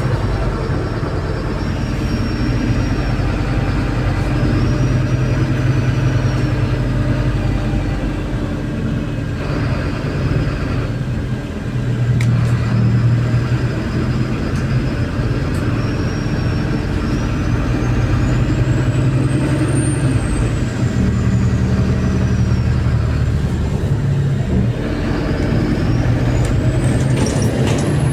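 MAZ-203 city bus under way, heard from inside the cabin: the diesel engine and drivetrain hum, shifting pitch as the bus speeds up and slows, with a high whine that rises and falls with road speed.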